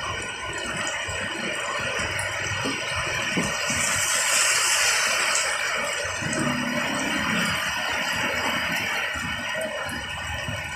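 Heavy rain pouring steadily, with traffic driving through flooded road water; the hiss swells briefly about four seconds in.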